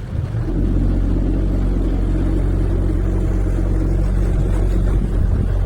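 Tour boat's motor picks up about half a second in, then runs with a steady low hum.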